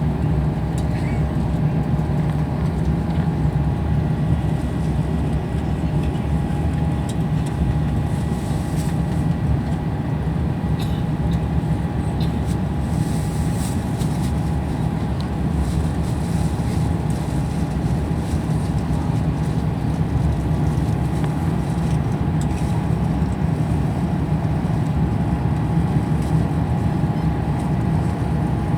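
Airbus A350-900 cabin noise in flight: a steady, unbroken rumble of the engines and airflow, with a faint steady whine above it.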